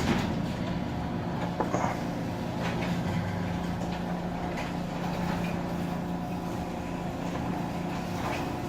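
Two Chamberlain Whisper Drive belt-drive garage door openers running together, moving a garage door along its tracks: a steady motor hum with a few rattling clicks about a second and a half in.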